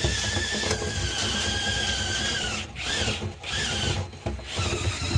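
Power drill spinning a dryer vent cleaning rod, its motor whining steadily. The whine cuts out briefly twice past the middle and then picks up again.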